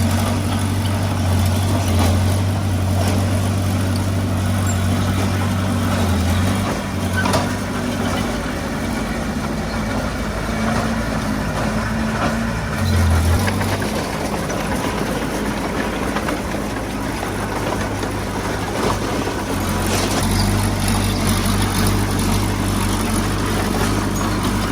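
Heavy diesel engine of earthmoving equipment running steadily. Its low drone is strongest for the first six seconds and again from about twenty seconds on, with a brief surge around thirteen seconds.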